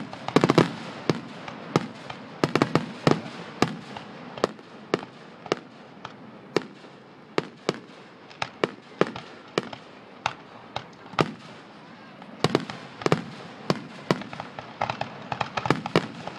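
Aerial fireworks shells bursting in a run of sharp bangs, roughly one or two a second, with a quicker cluster of bangs about twelve seconds in.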